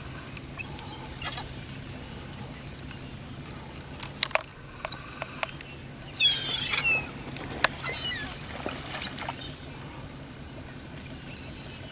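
Seagulls calling over the water, short sliding cries near the start and a burst of several calls about six seconds in, over a steady low hum. A few sharp clicks come about four seconds in.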